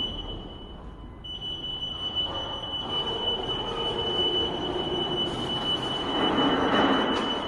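BRAVI Sprint order picker running: a steady high-pitched electric whine over a rumbling rattle that grows louder from about the middle.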